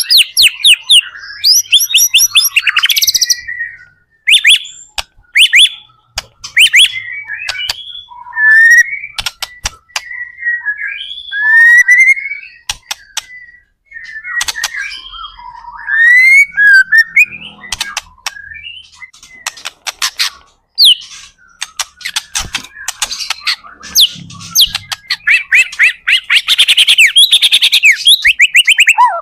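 White-rumped shama (murai batu) singing loudly: a varied run of clear whistles, rising and falling glides and rapid chattering, clicking notes, broken by short pauses between phrases.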